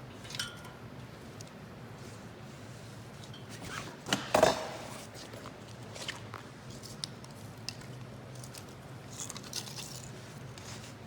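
Light metallic clinks and clicks of metal being handled, with one louder clatter about four seconds in.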